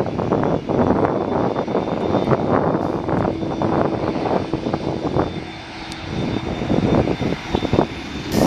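Airliner engine noise, a continuous loud rush, dipping briefly about two-thirds of the way through.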